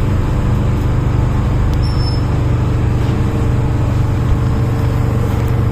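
Interior running noise of an MTR M-Train electric multiple unit: a steady, loud low rumble with a faint steady hum above it.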